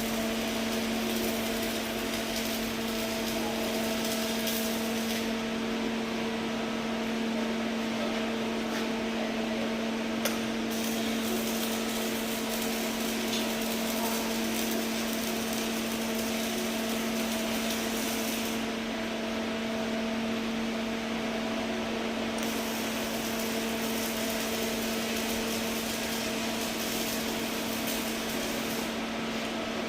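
Arc welding machine humming steadily, a constant low electrical hum under a broad hiss whose high end thins out twice for a few seconds.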